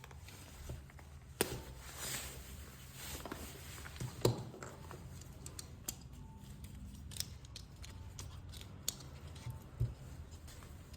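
Small metal repair tools clicking and scraping against an iPhone XR as its screen is pried up from the adhesive. Scattered sharp clicks over a low steady hum, the loudest a little over four seconds in.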